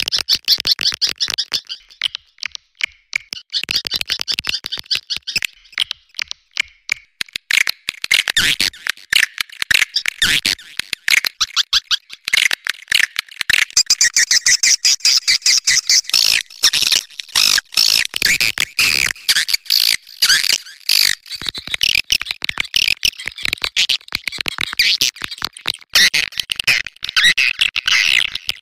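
Swiftlets' mating calls, a dense, unbroken stream of rapid chattering chirps and clicks, as used to call swiftlets in.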